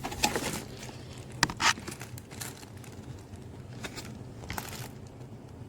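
A handful of scattered sharp clicks and taps from handling the vacuum's parts, with low handling noise between them.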